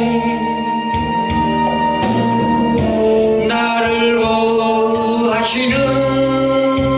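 Gospel song: a voice singing held notes over instrumental backing with bass and keyboard.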